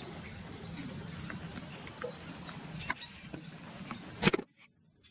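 Small birds chirping over a steady low rumble, with scattered ticks and one loud sharp click about four seconds in, after which the sound cuts off abruptly to near silence.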